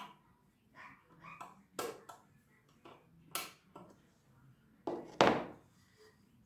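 Small metal clicks and taps from fitting a washer and retaining circlip onto a scooter's kick-start shaft, a few scattered strokes with a louder knock about five seconds in.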